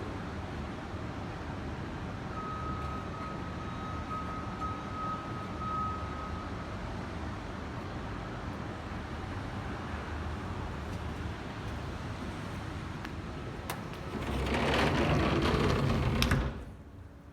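Steady outdoor rushing of wind and distant traffic, with a faint high whistle for a few seconds. Near the end it swells louder for about two seconds, then cuts off sharply to a quieter indoor hum, as a sliding balcony door is shut.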